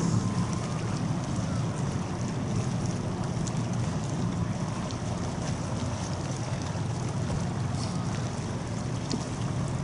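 Steady low rumble of a large RORO cargo ship, with wind blowing on the microphone.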